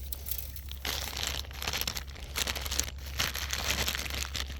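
Irregular dry crinkling and crunching, starting about a second in, over a steady low rumble.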